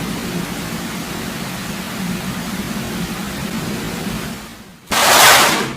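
Steady hiss of heavy rain during a thunderstorm with a faint low hum, fading out about four and a half seconds in. Then comes a sudden, very loud burst of noise lasting under a second, the loudest sound of all.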